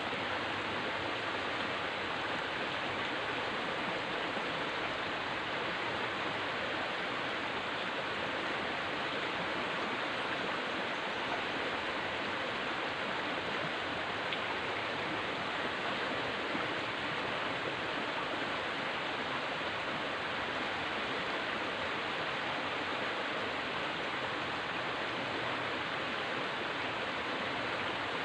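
River water flowing steadily: an even rushing noise with no breaks or changes.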